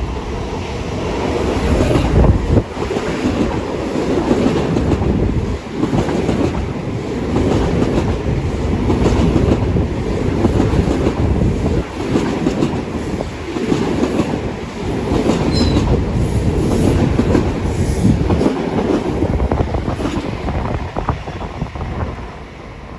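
Long Island Rail Road train passing close by, its steel wheels running over the rails in a loud, sustained rush with repeated short clacks; the noise drops off near the end as the train clears.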